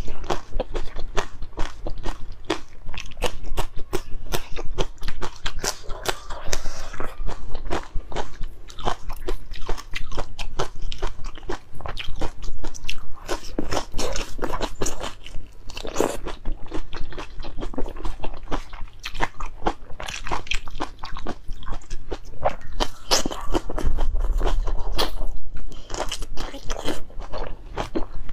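Close-miked chewing of whole chilli peppers: a dense run of crisp crunches, several a second, as the peppers are bitten and chewed.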